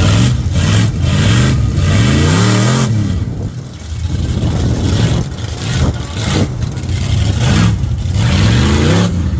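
Big mud truck engine running loud and revving, its pitch rising and falling several times, most clearly about two seconds in and again near the end.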